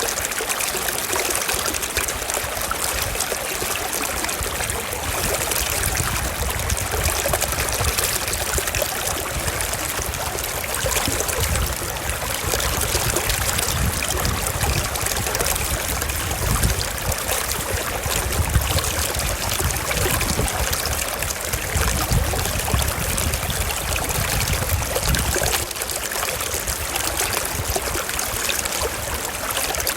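Shallow stream running over rocks, a steady trickling and burbling with a low rumble underneath.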